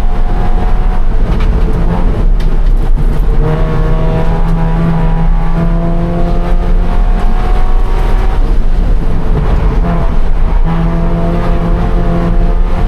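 2013 Scion FR-S's 2.0-litre flat-four engine running hard under racing load, its pitch climbing steadily, dipping about two-thirds of the way in, then climbing again, over a heavy low rumble.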